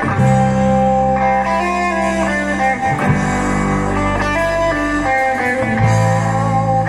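A live band playing an instrumental passage with electric guitar over sustained bass notes.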